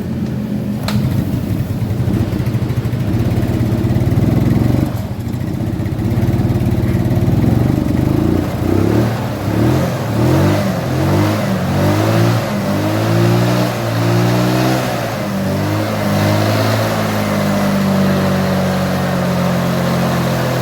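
Yamaha Mio Soul scooter engine running with its intake manifold now bolted tight. It holds steady at first, then from about eight seconds in its pitch goes up and down over and over as the throttle is worked.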